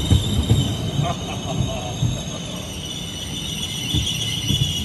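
Deutsche Bahn ICE high-speed train rolling slowly along a station platform, with a steady high-pitched metallic squeal over a low clatter of the wheels.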